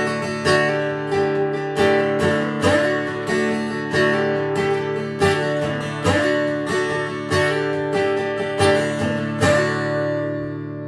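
Acoustic guitar strumming a song's intro, chords struck in a steady rhythm of about one to two strokes a second, the last chord left ringing near the end.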